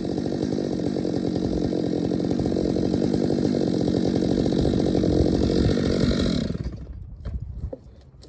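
Chainsaw running at speed while cutting into a tree, then let off and dying away about six and a half seconds in, leaving only faint small clicks.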